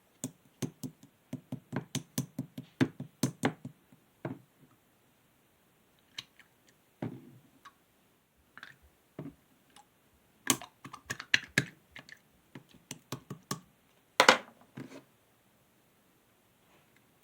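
Clear slime being squeezed and pressed by hand, giving runs of quick sticky clicks and small pops with short pauses between them. The loudest crackle comes near the end.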